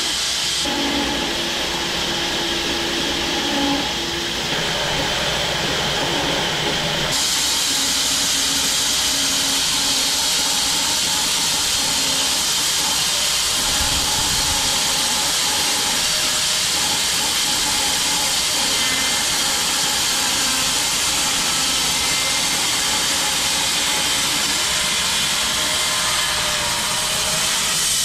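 Large home-built bandsaw mill cutting through an acacia log: a steady loud hiss of blade and sawdust over the mill's running hum, its tone shifting slightly about a second in and again about seven seconds in.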